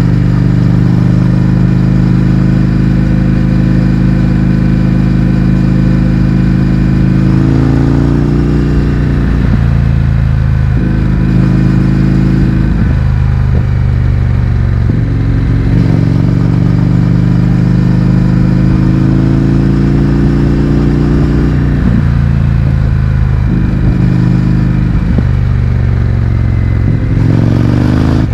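Indian FTR 1200's V-twin running through an Akrapovič exhaust with the baffles removed, heard from on the bike while riding. It holds a steady cruise, eases off about a quarter of the way in, then pulls up through the gears with a brief dip at each shift. It cruises again, then eases off and shifts up twice more near the end.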